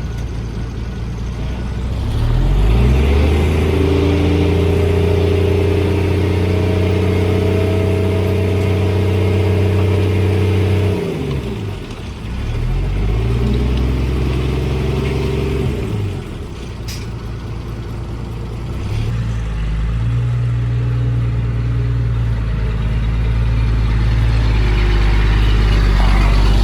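Diesel engine of heavy earthmoving machinery revving up under load and easing off, over and over: it rises about two seconds in and holds, drops back around the middle, picks up again, dips once more, then climbs steadily toward the end.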